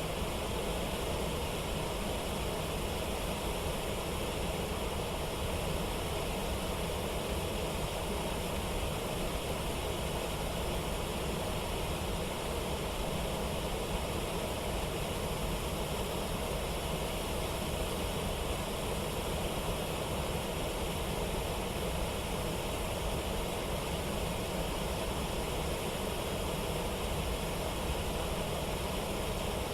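Steady rushing water of a waterfall and rapids, an even roar that does not change.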